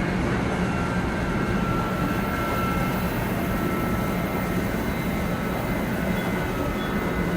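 Steady running sound heard inside a 700 series Shinkansen car: a continuous low rumble of the train on the rails, with a few thin, faint high tones over it.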